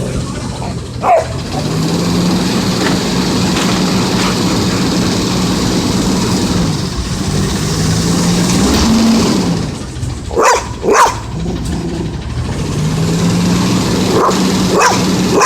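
Autocar ACX garbage truck's diesel engine revving up and holding at raised speed, typical of the engine being run up to power the Heil body's hydraulics, dropping back between rises. A dog barks once about a second in, twice in quick succession past the middle, and once near the end.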